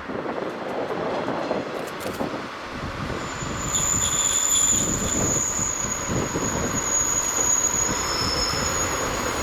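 Sagano scenic trolley train rolling past on the rails, with high-pitched wheel squeal coming in about four seconds in and carrying on over the rolling noise.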